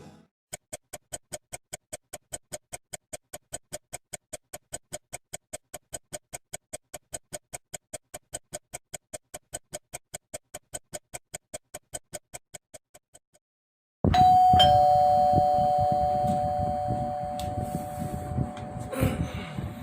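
An even ticking, about four ticks a second, runs for the first two-thirds and fades out. After a short silence, a two-tone ding-dong doorbell chime sounds and rings down slowly; it is the loudest thing heard.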